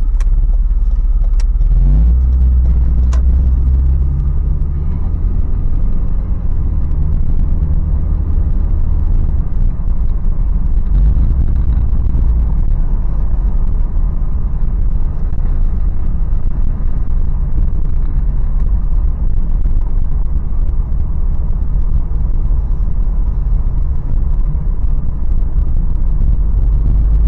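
Toyota 4Runner's 4.0-litre V6 running under way, heard with its road noise as a steady low rumble inside the cab while driving. There are two light clicks in the first few seconds.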